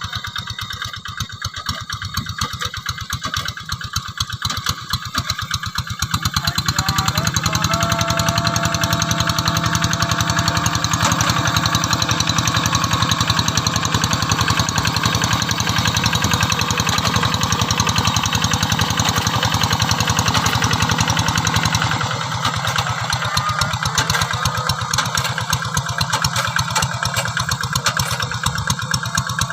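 Single-cylinder diesel engine of a Quick G3000 two-wheel hand tractor chugging steadily as it plows. It grows louder about six seconds in and eases off a little near the end.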